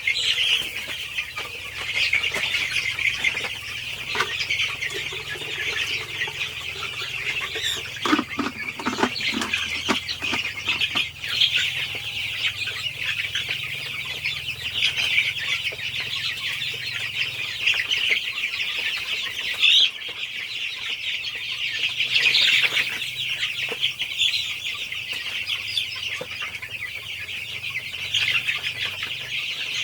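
A flock of young native chickens peeping and chirping in a dense, continuous high-pitched chorus, with a faint steady low hum underneath and a few knocks about a third of the way in.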